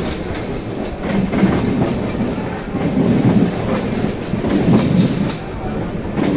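Passenger train running at speed, heard from its open doorway: a steady rumble with wheels clattering over the rail joints, swelling every second or two.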